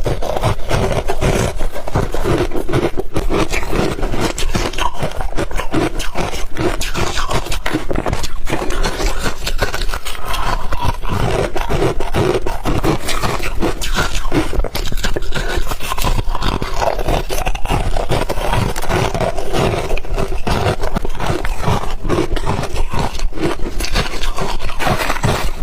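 Ice being chewed in the mouth, close to the microphone: a continuous, dense run of crisp crunches and cracks as the cubes break up.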